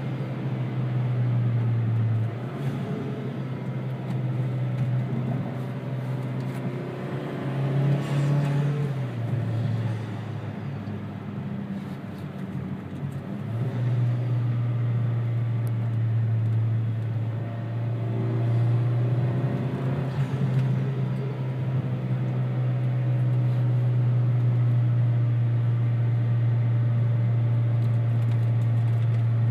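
2013 Chevy Sonic RS's 1.4-litre turbo four-cylinder, fitted with a new aftermarket exhaust, heard from inside the cabin while driving. The engine note shifts and dips through the first half, with a brief rise about eight seconds in, then holds a steady note from about halfway on.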